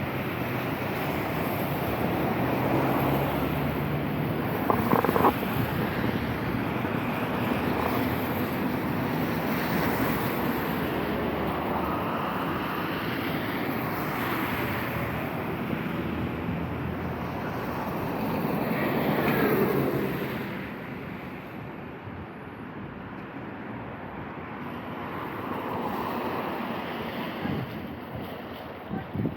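Street traffic on a wet road: a steady hiss of tyres that swells and fades as vehicles pass, the loudest about two-thirds of the way through, then quieter.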